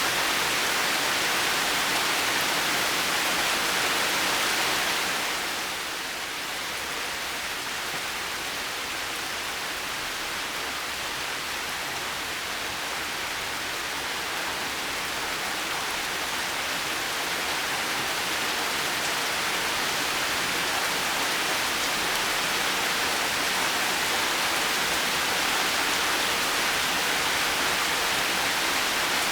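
Heavy rain falling steadily, a dense even hiss with no thunder. It eases a little about five seconds in, then slowly builds back to full strength.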